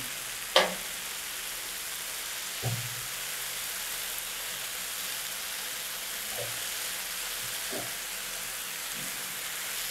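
Onions, tomatoes and cashew nuts sizzling gently in butter in a non-stick frying pan as they are stirred with a silicone spatula, a steady soft hiss with a few light knocks of the stirring.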